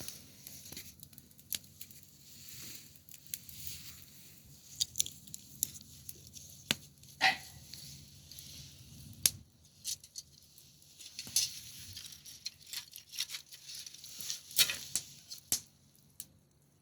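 Wood fire crackling: irregular sharp pops and snaps over a soft hiss, with a couple of louder pops.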